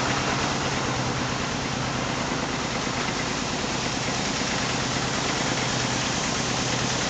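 An engine running steadily at an even speed, with a constant low hum over a steady rushing noise.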